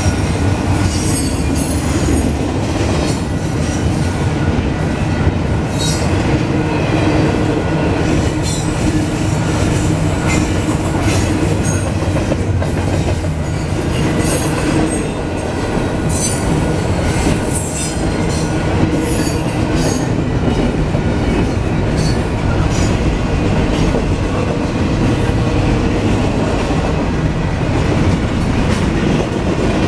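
Double-stack container train's well cars rolling past at close range: a steady loud rumble and clatter of steel wheels on the rails, with frequent short high-pitched wheel squeals, thickest in the first two-thirds.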